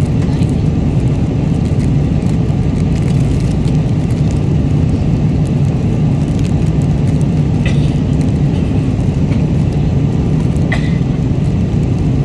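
Steady airliner cabin noise in flight: an even, loud low rumble of engines and airflow. Two short clicks come about eight and eleven seconds in.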